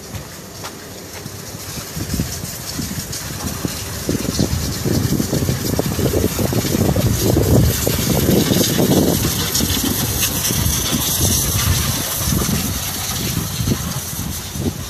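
Scania R440 truck's diesel engine running, swelling from about two seconds in to its loudest around the middle and easing off toward the end, with a steady hiss over it.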